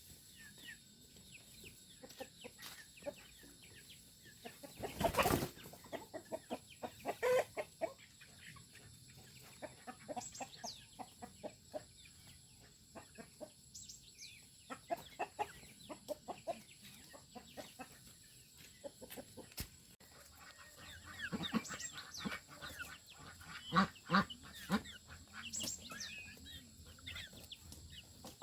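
Chickens clucking, with many small clicks and taps and a louder knock about five seconds in.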